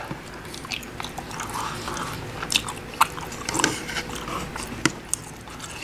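Close-up chewing of a mouthful of orange chicken and fried rice, with wet mouth sounds and occasional sharp clicks.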